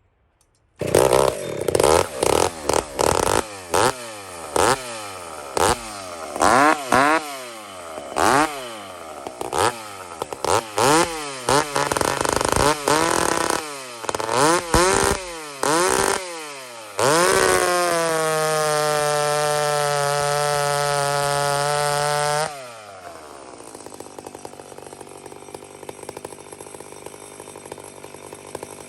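Hot-rodded McCulloch 850 two-stroke chainsaw being blipped: a string of quick revs up and back down, about one a second. It is then held at high revs at a steady pitch for about five seconds, drops sharply to idle and idles quietly.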